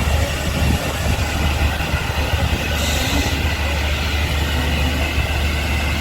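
Heritage train running on the railway: a steady low rumble with an even rushing noise over it.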